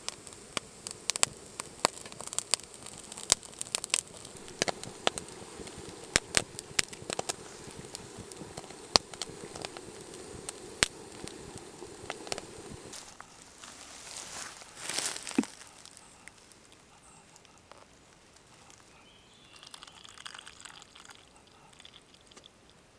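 Campfire crackling, with many sharp irregular pops and snaps for roughly the first dozen seconds, then a brief rustling burst and the fire settling quieter.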